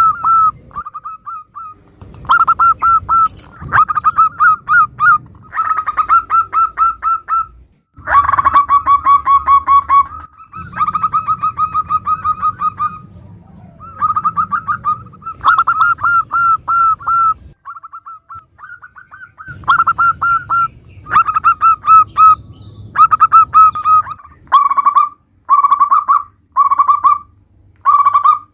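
Zebra doves (perkutut) cooing: repeated phrases of quick staccato notes at much the same pitch, in bouts of a few seconds with short pauses between.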